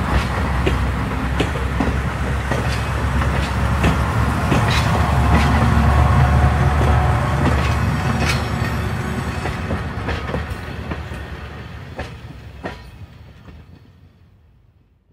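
Train running on the rails: a steady low rumble with irregular sharp clicks of the wheels over the rail joints. It fades out over the last few seconds.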